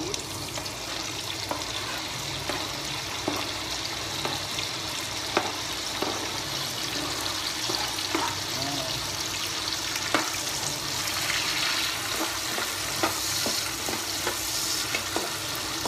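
Diced tomatoes sizzling in hot oil with sautéed garlic and onion in a frying pan, with a utensil scraping and tapping against the pan and cutting board as they are pushed in and stirred. The sizzle grows stronger in the second half.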